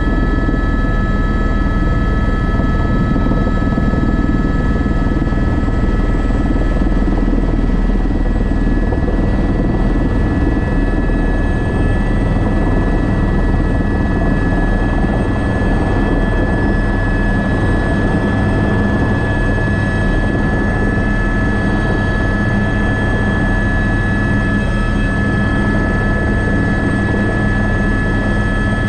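Airbus AS350 B3 (H125) helicopter running steadily: a single turboshaft engine and the rotors give a constant low rotor hum with a thin, steady turbine whine above it.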